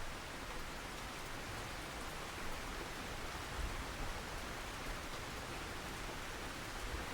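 Steady rain falling: an even, unbroken hiss of drops, with a few soft low thuds.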